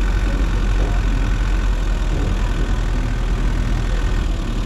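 A moving vehicle's engine and road noise, a steady low rumble.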